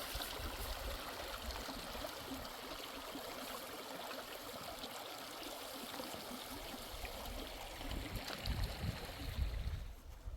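Mountain stream running steadily. Its rush drops away suddenly near the end, just after a few low thuds.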